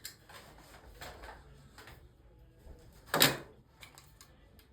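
Handling noises from working on the back of a picture frame: light scraping and clicking, then one loud knock about three seconds in.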